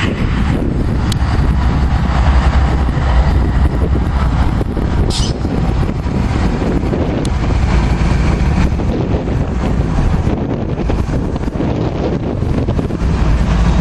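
Canadian Pacific loaded coal train rolling past with a steady, heavy low rumble, and wind buffeting the microphone. A short high-pitched squeal comes through about five seconds in.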